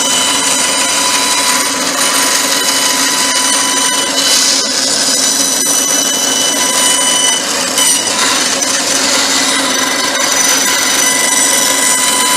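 Power saw running steadily with a high whine while cutting out a pattern.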